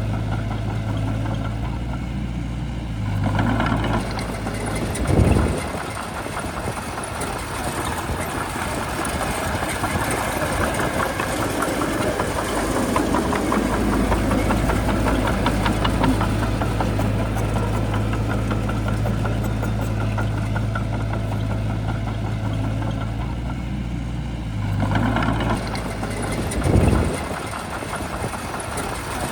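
Shantui bulldozer's diesel engine running under varying load, with two surges in engine sound, one a few seconds in and one near the end, each ending in a short louder burst.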